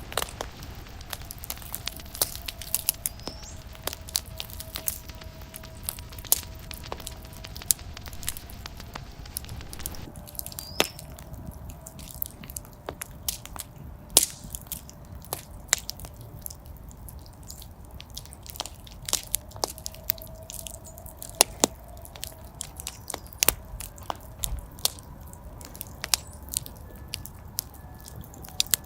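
Wood fire burning in a fireplace, crackling with many irregular sharp pops and snaps over a low steady hiss, with a faint thin whistle coming and going.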